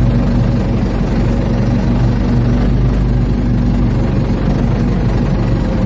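Ford 755 backhoe's engine running steadily at an even, low pitch.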